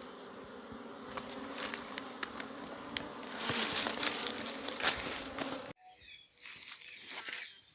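A honeybee swarm buzzing steadily around the box it has been shaken into, with a few faint clicks. About two-thirds of the way through the buzzing cuts off suddenly, leaving faint rustling.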